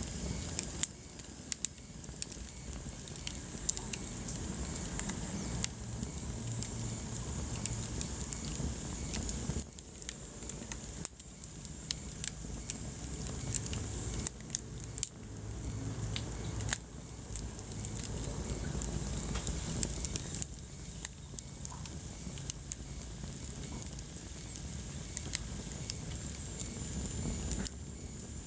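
Wood fire crackling in a fireplace: many sharp snaps and pops over a steady low rumble of the flames.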